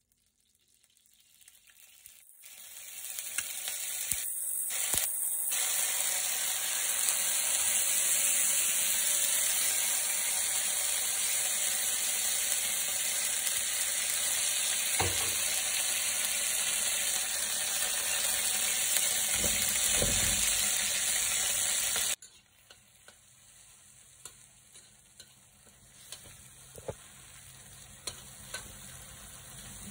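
Pounded chili padi and garlic paste frying in hot oil in a wok: a loud, steady sizzle that builds over the first few seconds. About two-thirds of the way through it drops abruptly to a quieter sizzle with sharp clicks of a metal spatula against the wok as the paste is stirred.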